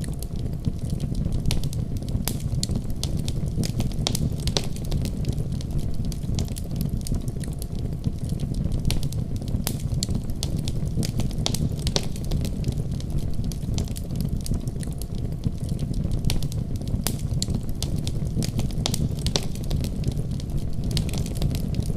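Wood fire in a fireplace crackling, with a steady low rumble of the flames and frequent sharp pops and snaps at irregular intervals.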